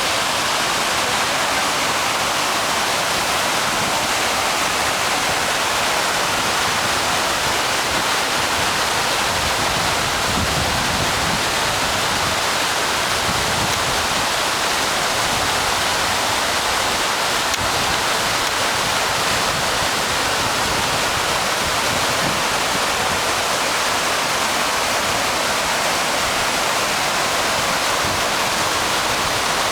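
Kuang Si waterfall: water falling and splashing in a steady, unbroken rush.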